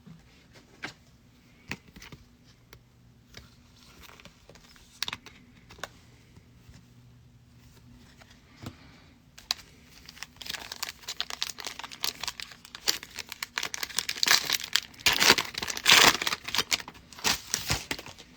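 Light clicks of cards being handled, then a trading card pack's foil wrapper being torn open and crumpled, the crinkling growing dense and loud in the second half.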